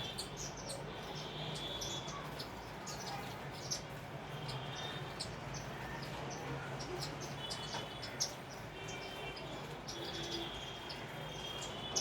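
Sparrows chirping, with many short, quick chirps overlapping throughout, over a low steady hum.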